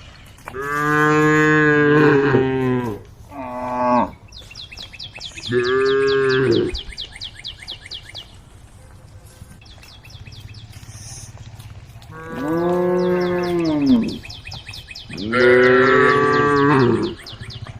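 Cows mooing, about five long calls one after another, some bending down in pitch at the end, the first and the last few the longest.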